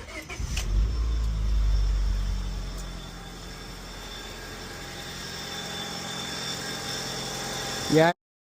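Car engine starting and coming up to speed, then settling into a steady idle about three seconds in. It runs much smoother now that the misfire has been fixed.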